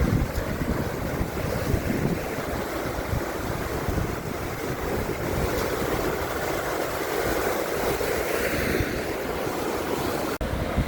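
Wind buffeting the microphone, a steady rush of noise with heavy low rumble, briefly cutting out near the end.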